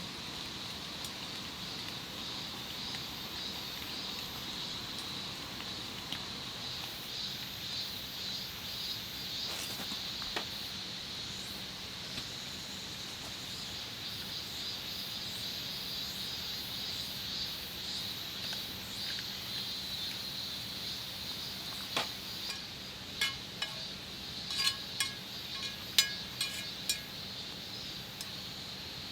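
Steady high-pitched chirring background; from about three-quarters of the way through, a run of sharp clinks of camp tableware: dishes and cutlery knocked together.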